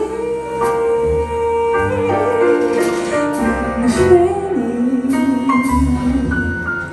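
Female jazz vocalist holding long sung notes in a slow ballad, with piano and bass accompaniment.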